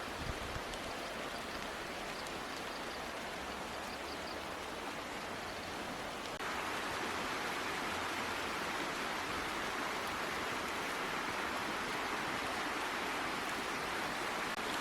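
Steady rushing water, like a flowing stream, that gets louder about six seconds in.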